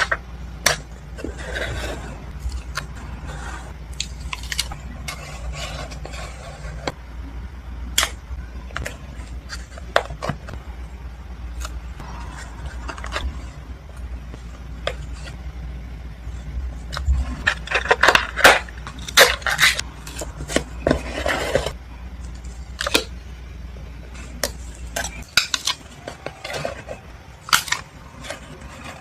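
Journaling and scrapbooking handling sounds: scattered taps and clicks of stationery with bursts of paper rustling, busiest a little past the middle, over a low hum that stops near the end.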